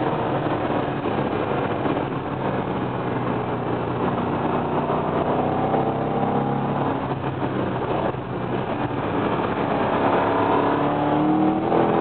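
Corvette Z06's 7-litre V8 under hard acceleration, heard from inside the cabin: the revs climb, fall back at an upshift about eight seconds in, then climb again.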